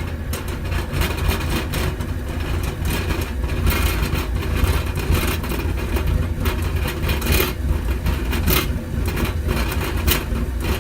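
Oil furnace burner firing, a steady low rumble of blower and flame with irregular crackling. It is burning smoky, a sign that the fuel-air mixture is wrong.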